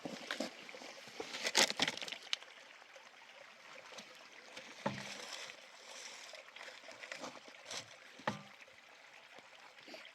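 Water sloshing and trickling, with a few sharp knocks and clatters scattered through it; the loudest comes about one and a half seconds in.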